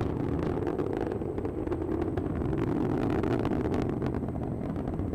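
ULA Vulcan rocket's BE-4 engines and solid rocket boosters in powered ascent: a steady deep rumble with a crackle running through it.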